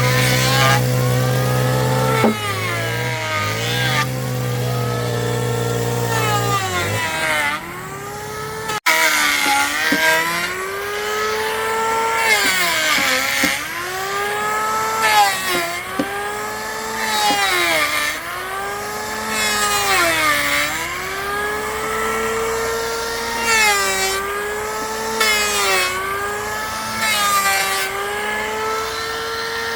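Handheld electric power tool working wood. Its motor's pitch sags and recovers again and again as it bites into the wood and eases off. There is a brief break about nine seconds in.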